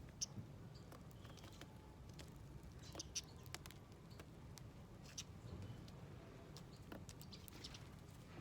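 Small birds feeding at a seed plate: scattered light taps and clicks of pecking and hopping, with a few faint short chirps.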